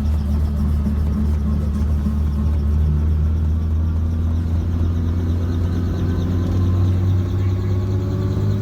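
Helicopter running, heard from inside the cabin: a loud, steady low drone of rotor and engine.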